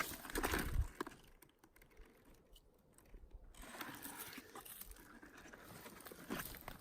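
Crunching and rustling of footsteps through dry forest undergrowth. It is loudest in the first second, goes nearly quiet for a couple of seconds, then fainter rustling steps pick up again.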